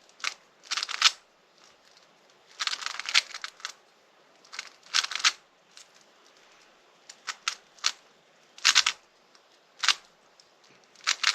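A speedcube being turned by hand: bursts of quick plastic clicking and clacking as its layers are twisted, broken by pauses of a second or so.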